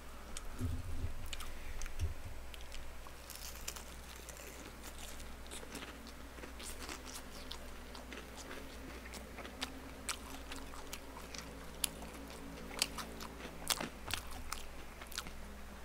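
Faint close-up eating sounds of a man chewing boneless fried chicken: scattered crunches and small mouth clicks, a few sharper ones in the second half, over a low steady hum.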